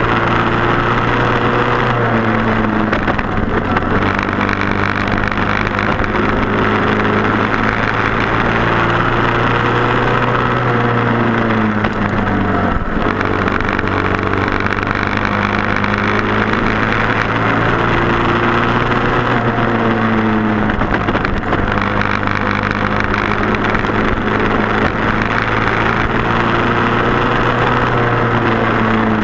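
Several Briggs & Stratton Animal single-cylinder four-stroke kart engines racing together. Their pitch dips and climbs again every several seconds, as they slow for corners and accelerate out.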